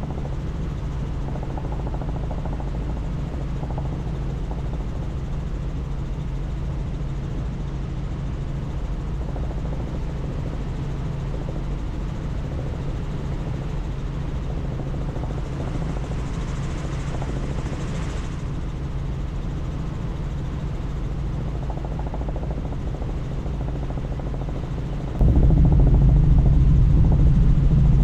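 Helicopter rotor and turbine drone heard from inside the cabin, steady with a low hum and wind noise. About 25 seconds in it jumps suddenly to a much louder level.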